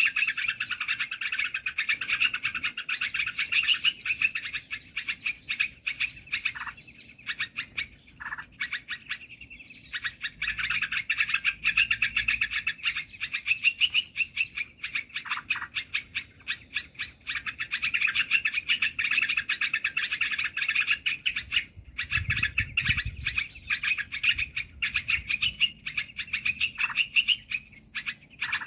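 Rapid, dense bird chattering: a continuous stream of quick chirps, the excited chatter used as a lure call for bulbuls. It thins out briefly about a third of the way in, and a low rumble comes in about three quarters of the way through.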